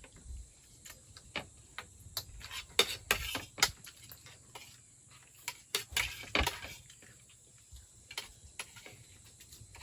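Irregular clinks and knocks of utensils against dishes, a few sharp ones louder than the rest, over a steady faint high whine.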